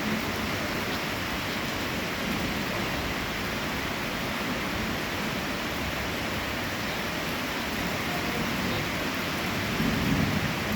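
Heavy rain pouring steadily as a dense, even hiss. A low rumble swells briefly near the end.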